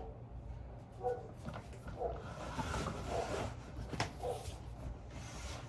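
Household items being handled and moved about: scattered light knocks, clunks and rustles, with one sharp click about four seconds in.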